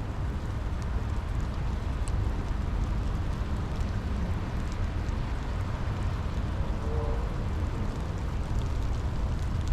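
Steady rain with a deep low rumble under it and a few faint drip ticks.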